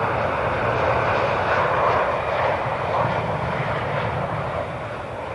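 Jet airliner engines, a loud, steady rushing noise that eases off a little near the end.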